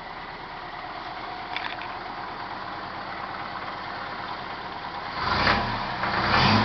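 Toyota 5K 1.5-litre four-cylinder engine in a jeep idling steadily, then revved up in pulses about five seconds in.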